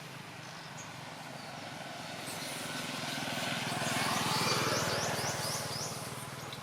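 A motor vehicle passing by: its engine hum grows louder to a peak about four and a half seconds in, then fades. A run of short high chirps sounds near the peak.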